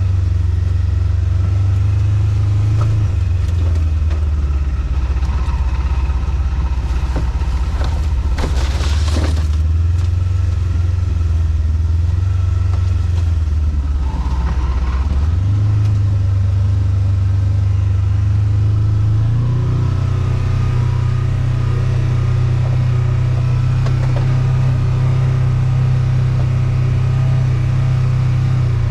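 Engine of a small off-road vehicle running as it drives, a steady low hum whose pitch drops about three seconds in and rises again around fifteen and twenty seconds in. A brief rustling noise comes about eight seconds in.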